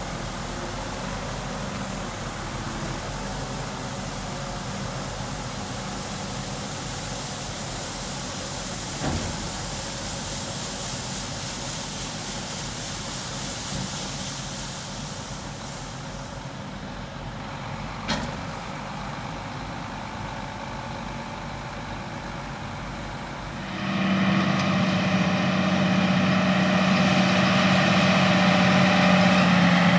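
Combine harvester running in a cornfield: a steady wash of machine noise with two short knocks, about a third and about two-thirds of the way through. Near the end the sound gets louder, with a strong steady engine hum.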